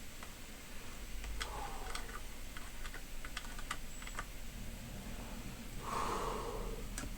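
A run of light, irregular clicks and taps, about a dozen over roughly three seconds, followed by a brief hiss about six seconds in and one last click near the end.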